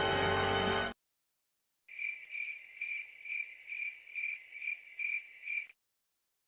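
Crickets-chirping sound effect: a high, regular chirp repeating about two and a half times a second for nearly four seconds. Before it, the tail of a music clip cuts off abruptly just under a second in, followed by a second of silence.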